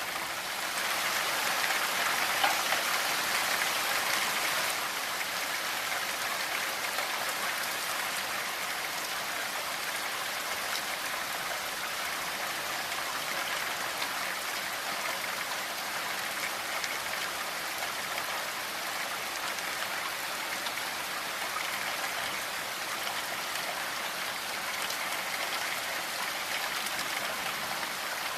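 Steady rainfall: an even hiss of drops falling on surfaces, a little heavier for the first few seconds.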